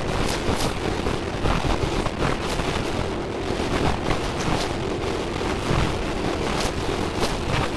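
Loud, steady rushing noise with a deep rumble and irregular faint crackles, with no speech or clear music.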